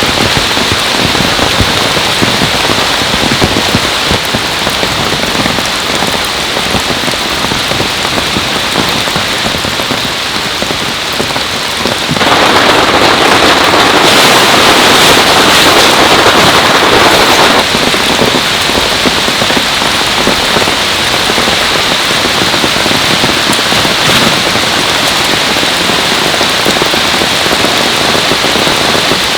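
Heavy rain falling steadily, a dense even patter, growing louder for about six seconds in the middle before easing back.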